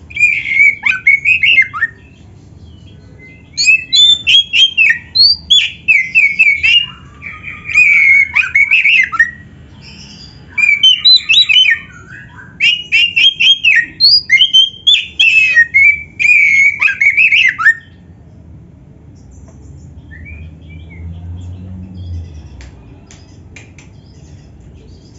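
Oriental magpie-robin singing a loud, rapidly varied song of whistled phrases in bursts, with short pauses between them; the singing stops about eighteen seconds in.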